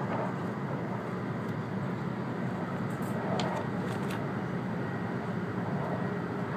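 Passenger-cabin running noise of an E2 series Shinkansen on the move: a steady rumble and hiss of wheels on rail and air, with a few faint ticks a little past the middle.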